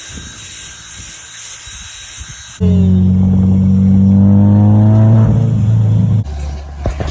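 Edited clips: a steady hiss with a few knocks, then, after a sudden cut, a loud, steady car engine drone for about three and a half seconds, cut off by a lower rumble near the end.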